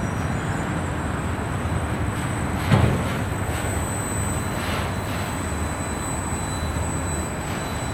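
Freight train of auto rack cars rolling past: a steady rumble of wheels on rail, with one sharp clank nearly three seconds in.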